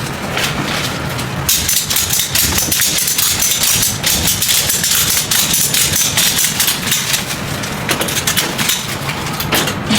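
Cargo strap being ratcheted tight across a trailer load: a dense run of irregular metallic clicks and rattles that starts about a second and a half in, over a steady low engine hum.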